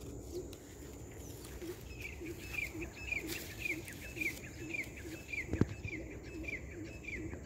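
Birds calling outdoors: a quick series of short, high, falling notes, about three a second, starts about two seconds in, over a lower note repeated at a similar pace. A single sharp click comes about five and a half seconds in.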